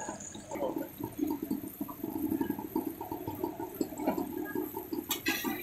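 Chapli kebabs frying in oil on a large flat iron griddle: a steady, dense sizzle. A few sharp metal clicks about five seconds in, from the metal spatula on the griddle.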